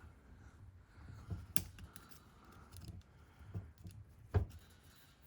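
A small metal tool prying at the piston pin of a two-stroke engine's piston: scattered faint clicks and scrapes of metal on metal, with a sharper click about one and a half seconds in and the loudest about four seconds in.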